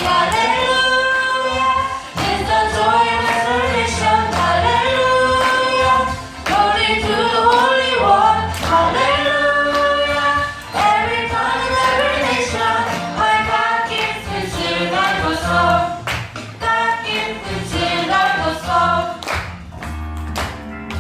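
A group of voices singing a worship song together, with a bass line and a steady drum beat underneath.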